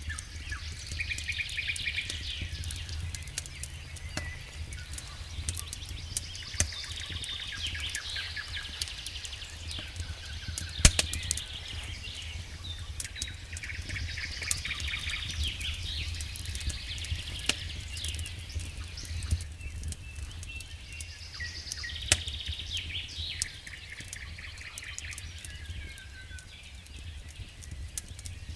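Wood fire crackling with scattered sharp pops, one much louder pop about a third of the way in, while a songbird sings short chirping phrases about every six to seven seconds. A steady low rumble runs underneath.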